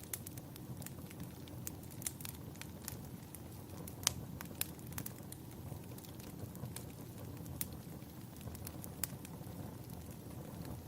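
Wood fire burning in a fireplace: a steady low rumble of the flames with frequent irregular sharp crackles and pops, one louder pop about four seconds in.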